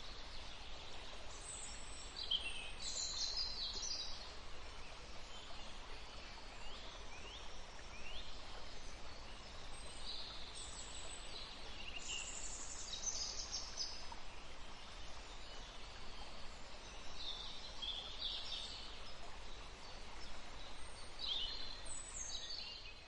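Forest ambience: songbirds singing in scattered bursts of high chirps and trills over a steady background hiss, starting to fade out near the end.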